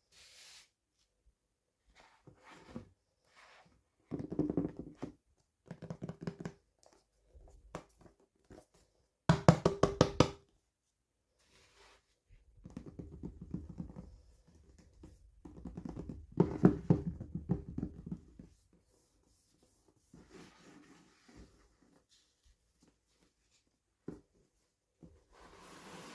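Bursts of rapid tapping and knocking from hands handling small plastic toys and packaging, the loudest burst about nine seconds in.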